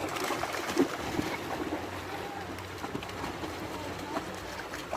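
Steady rush of flowing river water, with a few short sharp sounds over it, the loudest about a second in.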